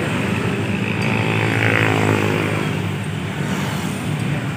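A motor vehicle passes on the road, its engine swelling up to a peak about two seconds in and then fading, over a steady low traffic rumble.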